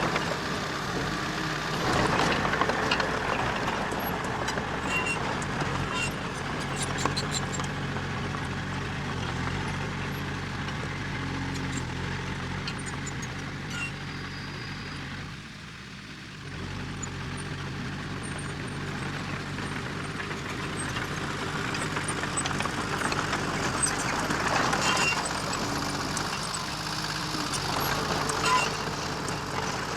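Diesel engine of earth-moving machinery running under varying load, with metallic clanks and rattles. The engine sound drops briefly about halfway through, then picks up again.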